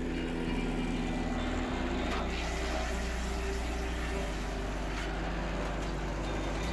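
A heavy machine's engine running steadily, a low hum that shifts slightly in pitch a few times.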